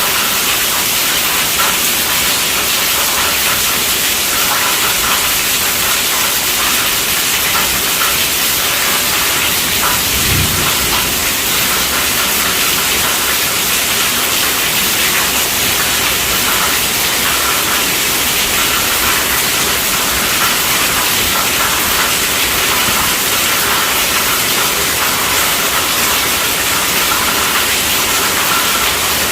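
Steady rainfall, an even, bright hiss, with a brief low thud about ten seconds in.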